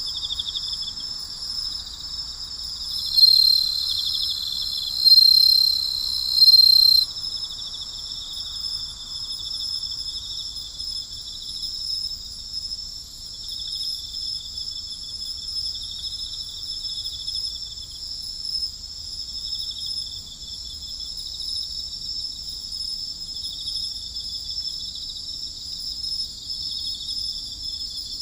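Night chorus of crickets trilling steadily in a dense, pulsing layer. From about three seconds in, one louder, higher trill rises above the chorus in three loud surges for about four seconds, then stops.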